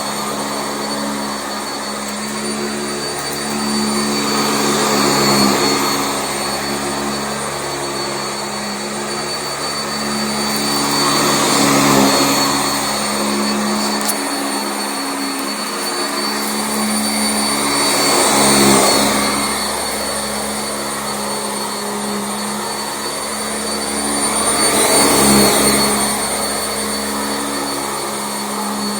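Sanitaire SC679J commercial upright vacuum cleaner running over carpet: a steady motor hum with a high whine, swelling louder and easing off about every six to seven seconds.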